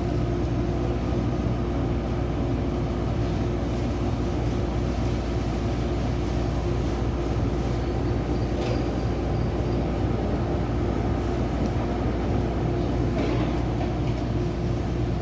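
Steady mechanical hum holding a few constant low tones, with an even noise underneath.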